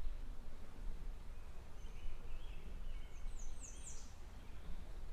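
Bird calling: a few short chirps about two seconds in, then a quick run of three or four high notes. A steady low rumble of outdoor ambience runs underneath.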